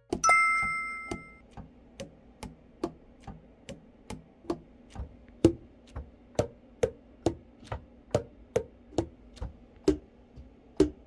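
A bell-like chime at the start, then the keys of a tenor saxophone clacking shut one after another, about two to three a second. Each pad slap gives a short pop whose pitch changes with the key closed, the sound of a freshly overhauled horn being fingered to check its pads.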